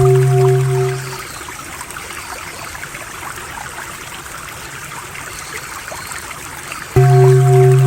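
Running stream water trickling and gurgling steadily, with a low droning 'om' tone that fades out about a second in and cuts back in abruptly near the end.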